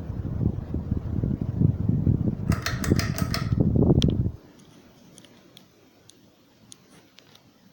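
Draught from a running 42-inch Progress Lighting Airpro Builder ceiling fan buffeting the microphone as a loud, fluttering low rumble, with a quick run of clicks about two and a half to three and a half seconds in. The rumble cuts off suddenly just after four seconds in, leaving only a few faint ticks.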